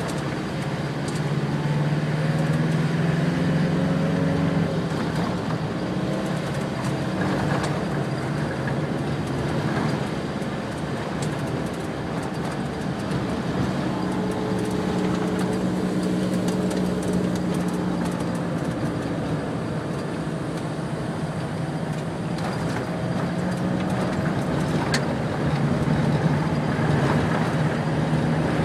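Car driving on a dirt road: steady engine hum whose pitch drifts up and down a little, over tyre and road noise, with a few scattered clicks and knocks from the rough surface.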